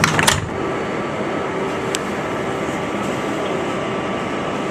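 New York City subway car doors closing with a short clatter at the start, then the steady rumble and hum of the 7 train car's interior, with one sharp click about two seconds in.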